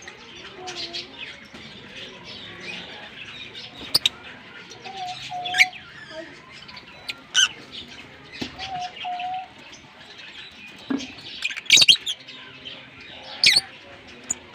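A pair of green Fischer's lovebirds chattering with a steady stream of quick high chirps. About five louder, sharp shrill calls break through it.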